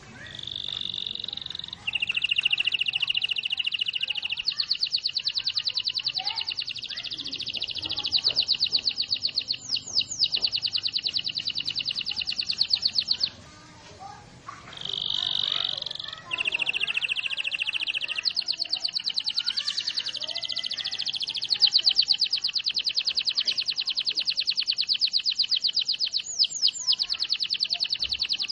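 Domestic canary singing vigorously: long, rapid rolling trills, high-pitched and sustained, shifting from one trill to the next with a few quick sweeping notes. The song breaks off briefly about halfway through, then resumes.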